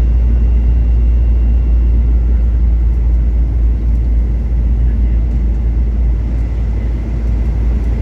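Steady low rumble of engine and airflow noise inside the cabin of a Boeing 737 in flight, with a faint steady whine above it.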